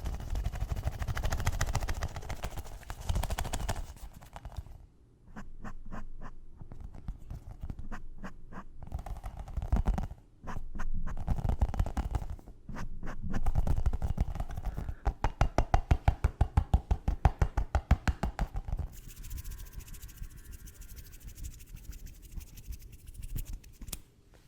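Fast, aggressive scratching and tapping on hard objects close to the microphone, with a rapid run of sharp, even taps past the middle.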